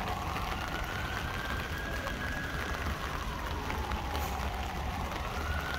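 Rain falling steadily on an umbrella, with a siren wailing slowly up and down in pitch, about one rise and fall every five seconds.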